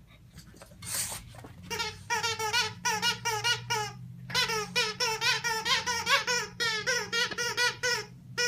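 Dog's squeaky plush toy squeaking over and over as the dog chews and squeezes it, in quick runs of several squeaks a second with a short pause partway through.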